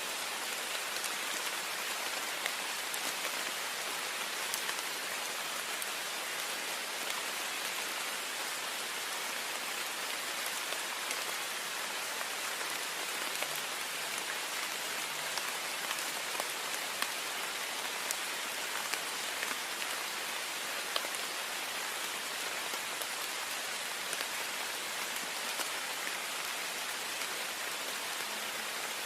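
Heavy rain falling steadily on a window pane, a dense even hiss with the fine patter of individual drops striking the glass.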